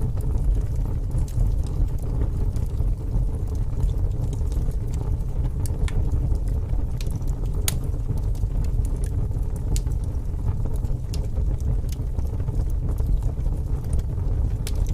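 Fire burning in a fireplace: a steady low rumble of flames with scattered sharp crackles and pops, one louder pop about eight seconds in.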